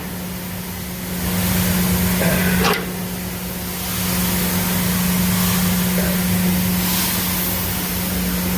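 Steady drone of an idling grain truck with a constant hum, growing louder about a second in, dipping near three seconds, and louder again about four seconds in.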